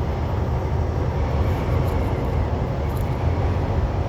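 Steady low rumble inside a moving semi truck's cab: engine and road noise while driving.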